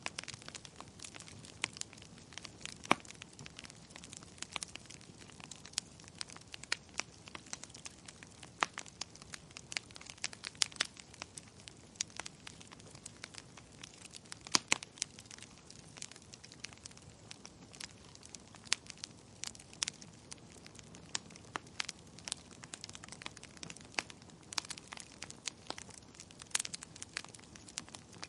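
Wood fire crackling in a fireplace: irregular sharp pops and snaps, a few louder than the rest, over a low, steady rustle of burning.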